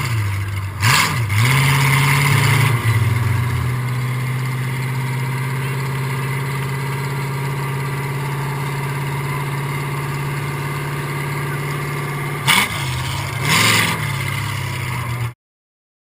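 Engine of a mud-run vehicle idling steadily, blipped briefly about a second in and twice near the end, then cutting off suddenly.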